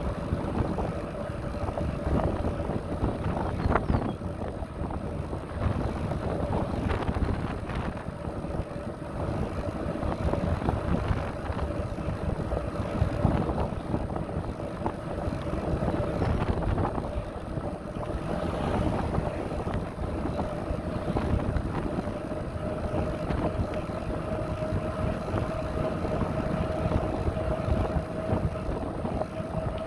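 Wind buffeting the microphone and bicycle tyres rolling over a rough path, with a steady whine held throughout and occasional knocks.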